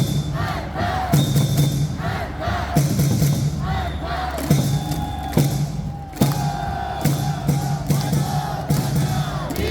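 Stadium cheering music over the PA with a steady beat, and a large crowd singing and chanting along.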